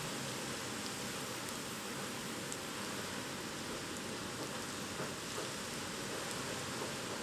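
Typhoon rain and wind: a steady, even rushing noise with a few faint drop ticks.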